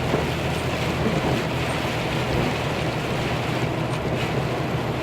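Heavy rain and road spray hissing steadily on a truck cab, over the low drone of the truck's engine and tyres on the wet road, heard from inside the cab.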